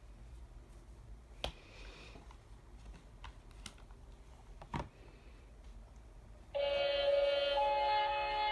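A few sharp clicks and taps of a board book being handled. About two-thirds of the way through, the book's electronic sound module starts playing a nursery-rhyme tune through its small, tinny speaker.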